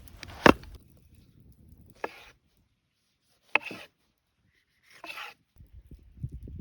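Four sharp knocks, each with a short rustling tail, about a second and a half apart, then low, irregular handling noise near the end.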